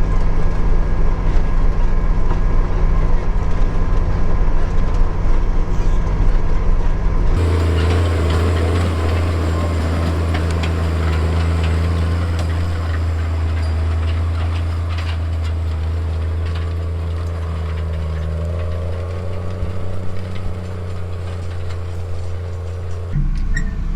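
Farm tractor diesel engine running steadily. About seven seconds in the sound changes abruptly to a deeper, stronger drone, and changes again shortly before the end.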